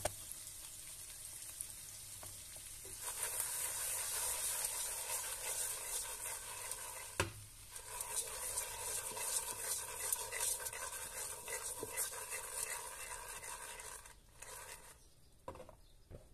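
Sliced onions and a seared piece of meat sizzling in oil in a pot, the sizzle swelling as the pot is shaken and swirled by its handles. There is one sharp knock about seven seconds in, and the sizzle dies down near the end.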